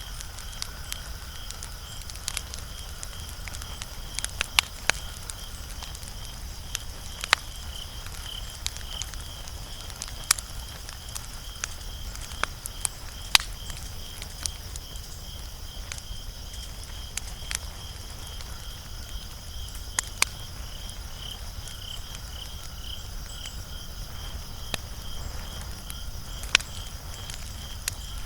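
Wood fire crackling, with sharp irregular pops, the loudest about 13 seconds in. Behind it a high chirp repeats evenly, several times a second, without a break.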